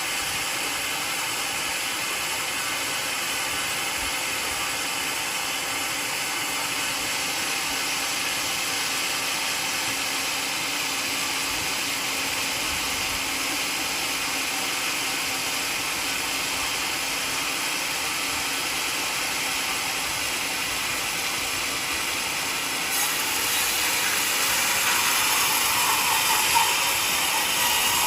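Sawmill running steadily, growing louder about 23 seconds in as the blade starts cutting into a mahogany log.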